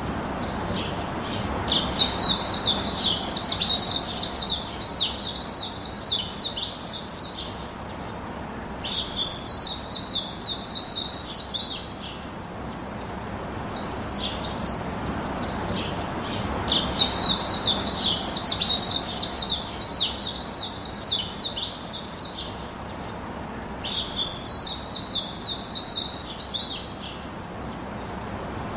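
Songbird singing in long bouts of rapid, high chirping trills, four bouts of several seconds each with quieter gaps between, over a steady low background hiss.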